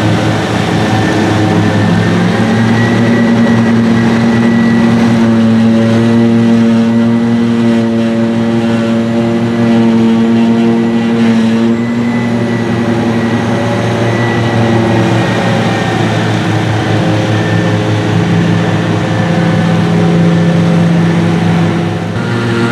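Heavy diesel engines of silage-harvesting machinery running steadily under load, loud and continuous, their pitch shifting a little up and down.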